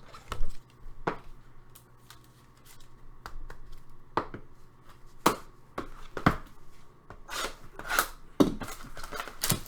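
Trading cards and packs being handled: scattered sharp taps and clicks with some soft rustling as cards are shuffled and set down.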